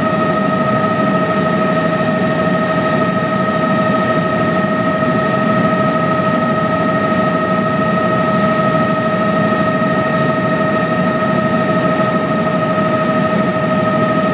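Helicopter running steadily: a constant drone with a high, unchanging whine over it.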